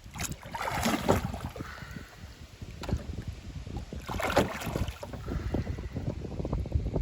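Oars of a small rowing boat pulling through lake water, with two louder splashing strokes, one about a second in and one about four seconds in. Wind buffets the microphone throughout.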